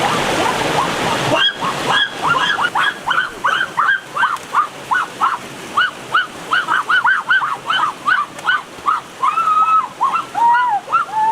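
Rushing water at first, then, after an abrupt cut, a long series of short, rising-and-falling bird calls at about two to three a second, with a few longer held notes near the end.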